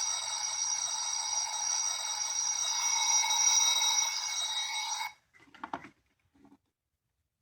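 A small capsule-toy sound gadget's speaker playing a continuous electric-bell-like ring that cuts off suddenly about five seconds in. A few small clicks follow.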